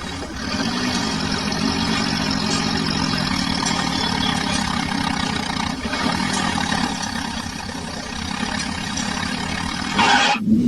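Tractor engine running steadily, its pitch wavering slightly a couple of times, with a short swell near the end.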